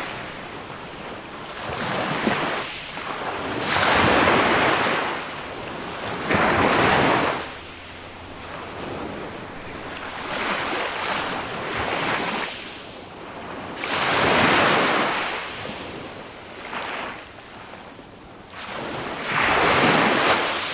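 Small waves of a calm sea breaking on a sandy beach and washing back. They surge and fade every few seconds, with four louder breaks among gentler ones.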